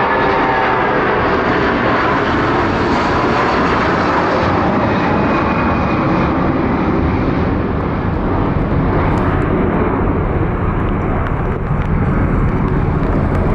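Airliner engines running loud and steady, with a faint whine that falls slightly in pitch in the first second.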